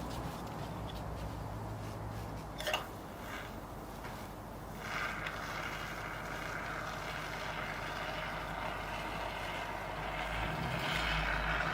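Expanding foam spraying from an aerosol can, a steady hiss that starts about five seconds in, after a single knock. A low steady hum lies underneath.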